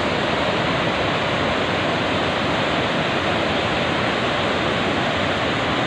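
Waterfall's rushing water: a loud, steady, unbroken rush of falling water.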